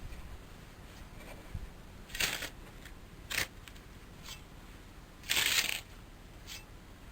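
A few short rustling, scuffing noises, the longest and loudest about five and a half seconds in.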